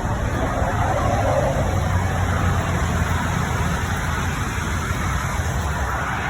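Steady low rumble of a motor vehicle running, with an even hiss of noise over it.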